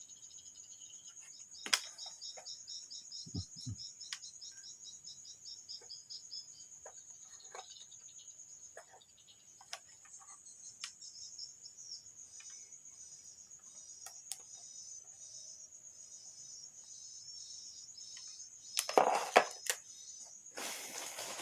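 Crickets chirping in a steady high trill, with a faster chirping layer in the first few seconds. Scattered light clicks and a low thump from work at the bench, then louder rustling and clattering near the end.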